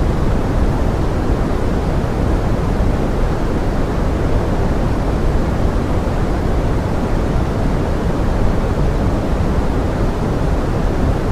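Steady pink noise, an even rain-like hiss with its weight in the low end and no separate drops or events.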